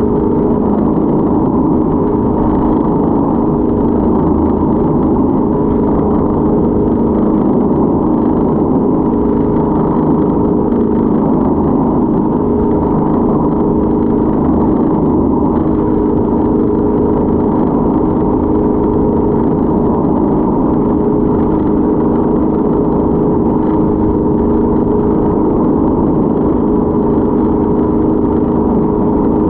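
Motorboat engine running at a steady speed: a loud, even drone with a constant hum that does not rise or fall.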